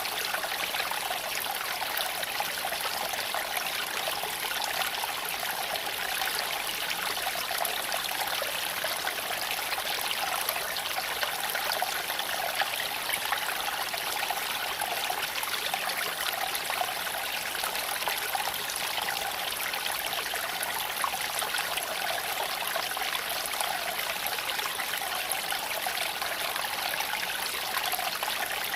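Creek water flowing and trickling over stones: a steady rushing with fine splashing detail throughout.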